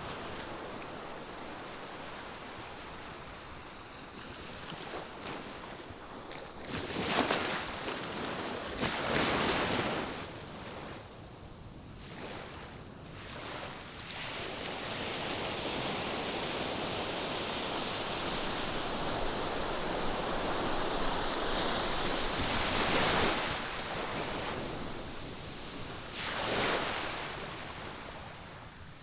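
Ocean surf breaking on a beach: waves crash in turn, loudest about seven, nine, twenty-three and twenty-six seconds in, with a long steady wash of water in between.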